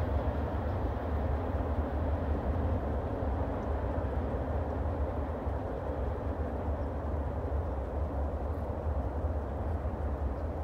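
Freight train rolling away down the line: a steady rumble of wheels on rail that eases slightly as the last cars recede.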